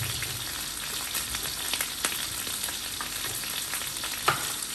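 Chicken pieces frying in hot oil in a pan: a steady sizzle with scattered crackles and pops, and one sharper click about four seconds in.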